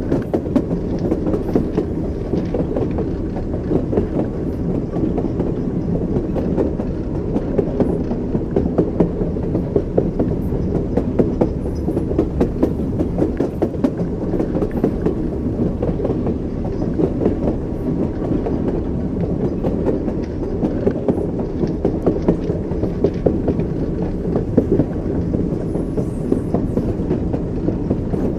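Train wheels clattering over rail joints, with a steady low rumble of the moving railway carriage and repeated clicks and knocks.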